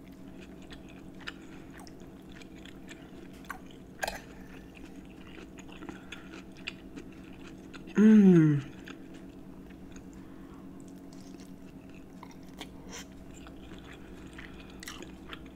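Close-miked chewing of a mouthful of pepper steak and rice, with small wet mouth clicks. About eight seconds in, a loud, short closed-mouth "mmm" that falls in pitch.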